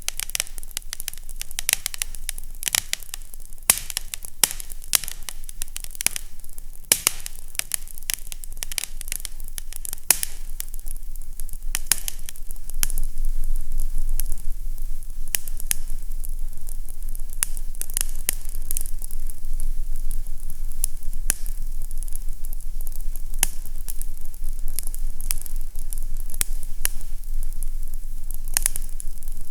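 Fireplace crackling, with frequent sharp pops and snaps over a steady hiss. A low rumble underneath gets louder about halfway through.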